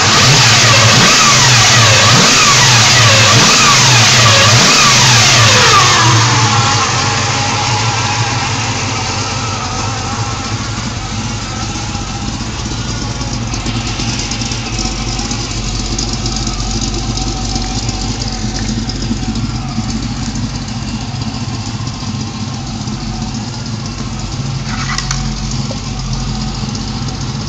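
383 stroker small-block V8 in a 1975 Holden HJ Statesman, blipped by hand at the carburettor throttle: several rising and falling revs for the first six seconds or so, then it settles back to a steady idle.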